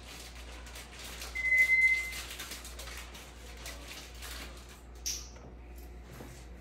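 A pet bird gives one steady, high whistle lasting under a second, about a second and a half in, and a short, higher chirp near the end. Faint clicks and a low hum run underneath.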